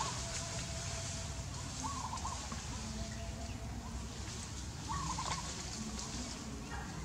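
A bird giving a short warbling call twice, a few seconds apart, over a steady high hiss and a low rumble.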